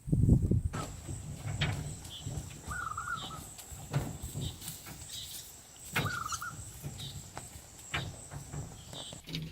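Outdoor ambience: a steady high-pitched insect buzz starts just under a second in and stops near the end, with two short warbling bird calls and a few scattered knocks.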